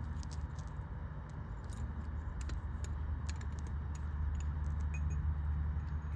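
Scattered light metallic clicks and clinks, like small metal parts or tools being handled, over a steady low hum.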